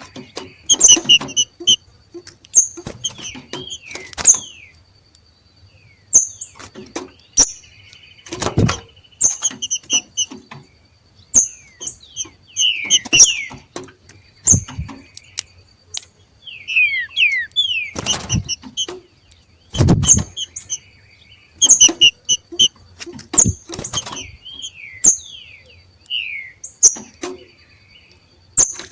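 Two green-winged saltators (trinca-ferro) giving the excited 'macheado' call: sharp clicks mixed with quick high chirps and short down-slurred notes, in irregular bursts.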